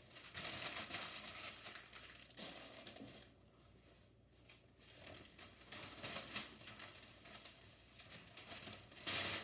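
Newspaper being crumpled up by hand and stuffed into a fireplace grate, in several bouts of paper rustling.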